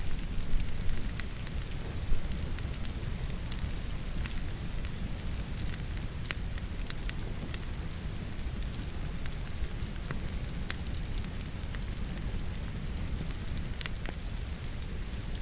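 Firewood crackling and popping in a fireplace, with many sharp snaps scattered through it, a few louder ones in the first two seconds, over a steady rain sound.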